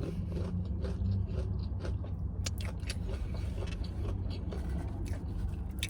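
Close-miked chewing and wet mouth clicks from eating chicken wings, a scatter of short sharp smacks over a steady low hum.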